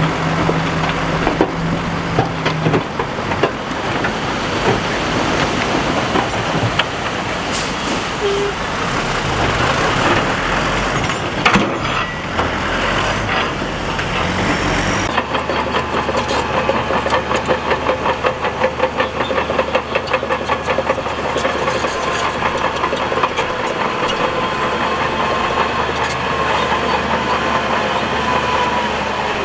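Heavy diesel earthmoving machinery running steadily under load, with a few sharp knocks. About halfway through the sound changes abruptly to a faster, even pulsing engine note.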